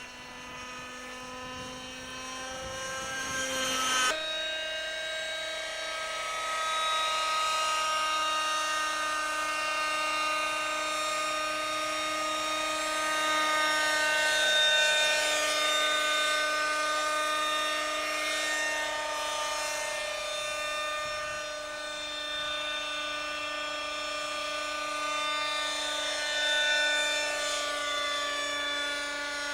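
A Schlüter Magic radio-controlled model helicopter, its small two-stroke glow engine and rotors running with a steady high-pitched whine. About four seconds in there is a click, and the pitch and loudness step up suddenly. After that the note rises and dips slowly as the throttle changes.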